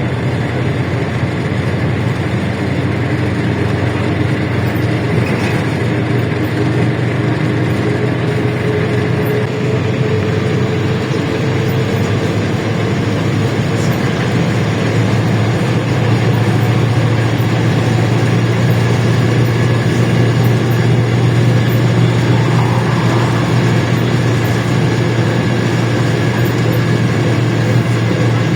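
LiAZ-677M city bus's ZIL V8 petrol engine running under way, heard from inside the bus: a steady low drone with a faint whine that slowly rises in pitch, growing a little louder in the second half.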